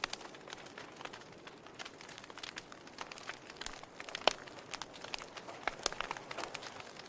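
Wood fire burning in a fireplace: irregular crackles and pops over a soft hiss, with one louder pop a little after halfway.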